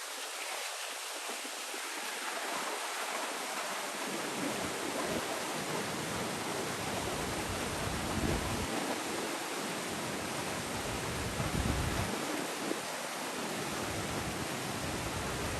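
Outdoor wind noise: a steady rushing hiss, with gusts buffeting the microphone in low rumbles that come and go from about four seconds in.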